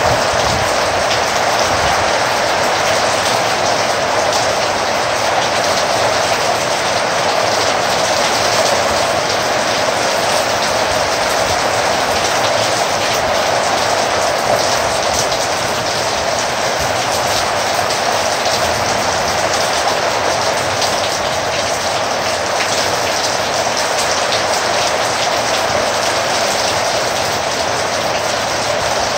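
Heavy rain falling steadily, a dense even hiss made of many drops.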